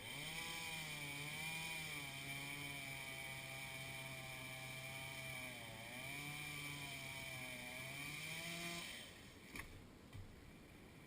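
Chainsaw running at high speed, its pitch wavering and dipping about six seconds in, then cutting off about nine seconds in. Two short knocks follow.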